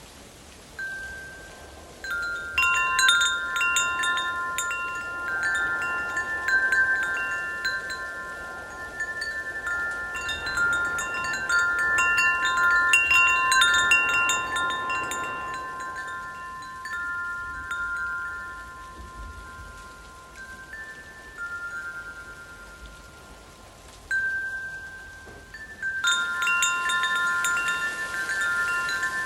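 Metal wind chimes ringing irregularly, several tones sounding and overlapping as they are struck. A gust of wind swells and fades beneath them about a third of the way in.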